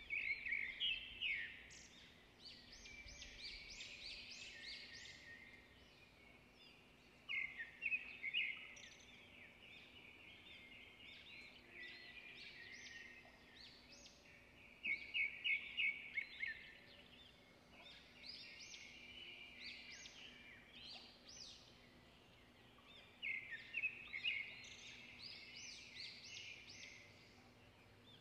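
A small songbird singing: bursts of quick, high chirps come about every seven to eight seconds, over a faint steady hum.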